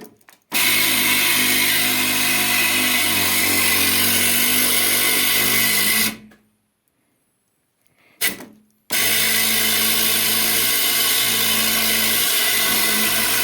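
Electric angle grinder running at full speed in two long runs, switched off for about two seconds in between with a brief blip near the restart.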